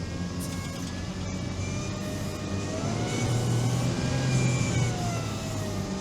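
Engine of a Veter all-terrain vehicle working under load as it climbs a muddy slope. It revs up through the middle and eases off near the end.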